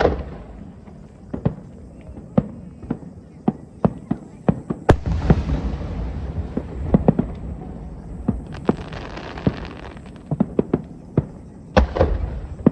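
Fireworks bursting in the sky: many sharp bangs in quick, irregular succession, with heavier booms about five seconds in and near the end, each followed by a spell of crackling hiss.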